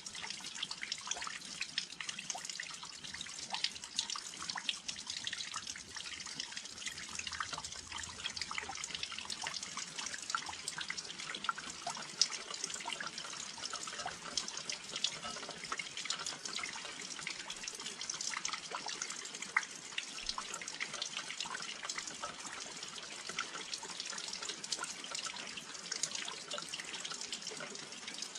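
Steady rain with many close, sharp drops and drips pattering on a windowsill.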